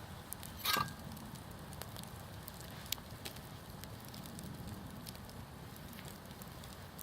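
Wood campfire burning steadily, crackling with many small sharp pops. A short louder noise comes just under a second in.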